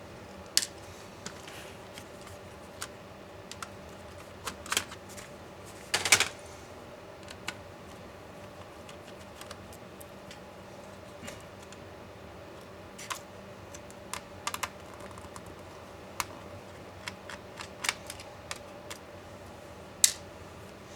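Irregular small clicks and taps of laptop parts being handled and taken apart by hand, with a louder cluster of clicks about six seconds in and a sharp click near the end.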